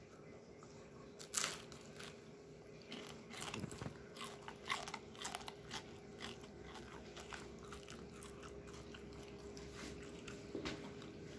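Someone chewing a crisp fried spring roll (lumpia): a run of faint crunches and crackles, thickest in the first half and thinning out after.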